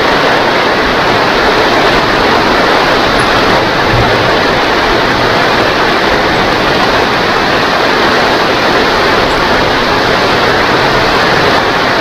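Rain pouring steadily: a loud, even hiss that does not let up.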